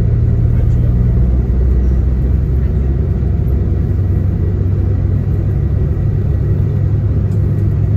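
Coach's diesel engine running, heard from inside the passenger cabin as a steady low drone with road and body noise over it.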